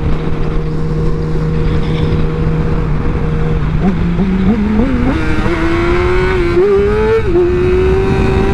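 Sport motorcycle engine under way at a steady cruise, then accelerating about four seconds in, its pitch climbing in steps with brief dips at gear changes before settling into a steady cruise again. Wind buffets the helmet microphone throughout.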